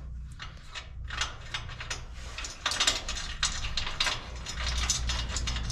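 Hand ratchet wrench clicking in quick runs as a bolt is driven in.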